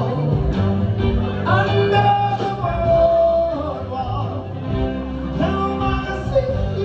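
A live band playing Motown songs: a singing voice over guitar and a steady bass line.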